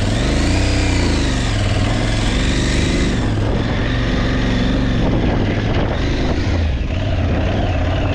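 Aprilia Tuareg 660's parallel-twin engine being ridden off-road, its revs rising and falling repeatedly with the throttle, with a quick rev up and back down about half a second in.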